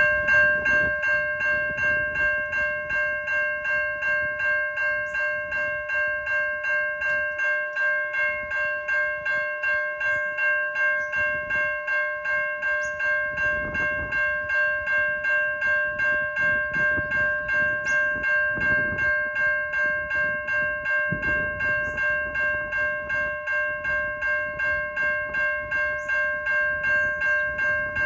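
Safetran Type 3 electronic level-crossing bells ringing: a steady, evenly repeated metallic ding that signals the crossing is activated.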